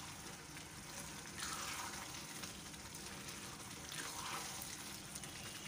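Beef mince, peas and potatoes sizzling over a high flame as a spatula stirs them around a granite-coated pot, with the stirring swelling louder about a second and a half in and again near four seconds. This is the bhunai stage, the curry being fried down on high heat.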